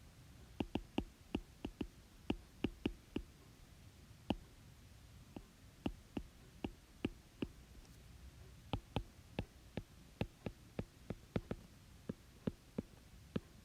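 Irregular sharp clicks or taps on a hard surface, coming in runs of two or three a second with short pauses, over a faint low hum.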